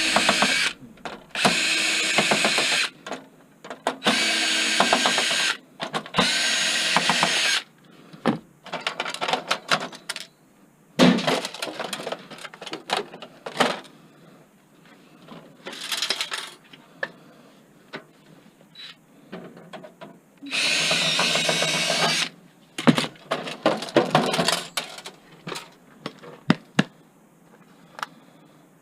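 Power drill backing screws out of a desktop computer case: several short runs of a second or two each, four in quick succession at the start and one more about two thirds of the way in, with clicks and clatter of screws and metal parts between.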